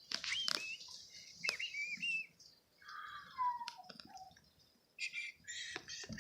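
Bird chirping: a run of short rising-and-falling chirps in the first two seconds and a falling note about three and a half seconds in, with a few light knocks.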